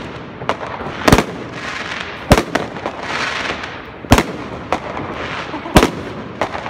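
Aerial fireworks bursting overhead: a string of sharp bangs, one every second or two, with a crackling hiss about three seconds in.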